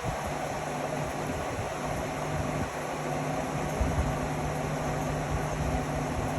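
Indesit Innex XWA 81252 front-loading washing machine running: a steady motor hum with the drum turning, and a few low knocks about midway.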